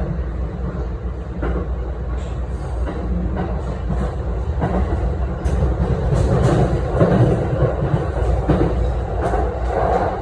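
E217 series electric train running on the rails, a steady low rumble broken by irregular clacks of the wheels over rail joints, growing louder about halfway through.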